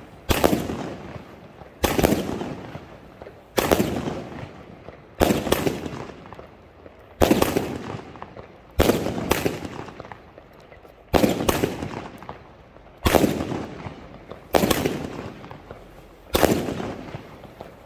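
30 mm consumer fireworks batteries firing shot after shot: about ten sharp bangs, one every one and a half to two seconds, each trailing off over about a second.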